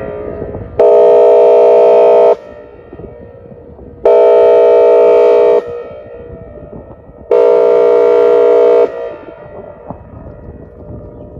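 Outdoor warning siren sounding its air horn signal for a tornado drill: three loud blasts of a steady, multi-tone horn chord, each about a second and a half long and about three seconds apart. Each blast cuts off sharply and leaves an echo, which fades after the last one near the end.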